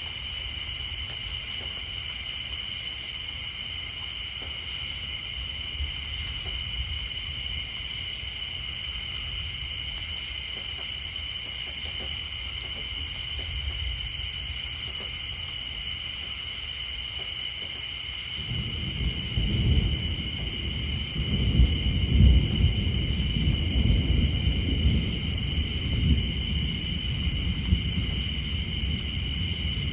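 A steady night chorus of insects and tree frogs, with a high pulsing call repeating about every two and a half seconds. About 18 seconds in, a low rumble of distant thunder begins and rolls on, swelling and easing, to the end.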